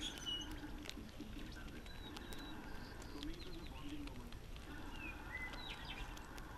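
Small birds chirping in short calls, with a low dove-like cooing underneath and scattered small clicks.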